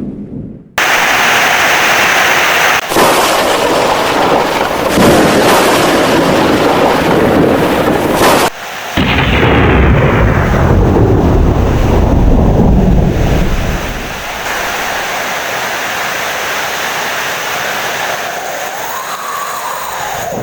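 Heavy rain with thunder. A brief drop-out at the start, then loud rain; a long low thunder rumble begins about nine seconds in and dies away after about five seconds, leaving steady rain.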